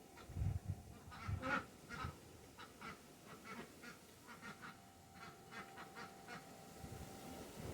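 Birds giving short, repeated calls again and again, with a couple of low thumps in the first second and a half.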